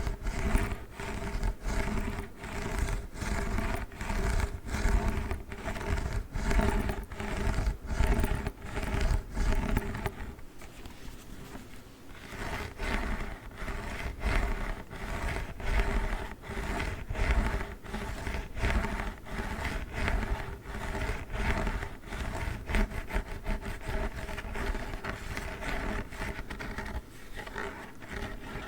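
Plastic gel cold pack being scratched and rubbed by hand in quick, repeated strokes, with a brief lull about ten seconds in.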